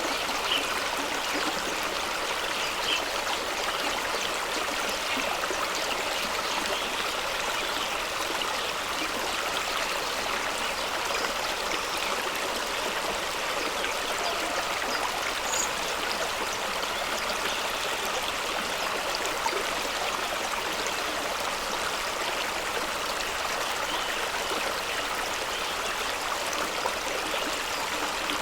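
Fast-flowing stream rushing and splashing over rocks at the foot of a small waterfall, a steady rush with small splashes and gurgles throughout.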